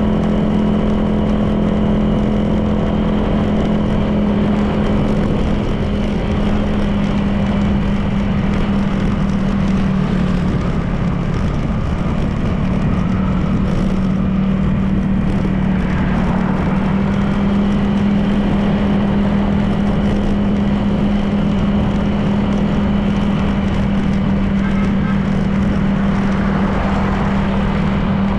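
Honda PCX 160 scooter's single-cylinder engine running at a steady cruising speed, with wind and tyre noise. The engine note dips briefly about ten seconds in, then comes back up and holds steady.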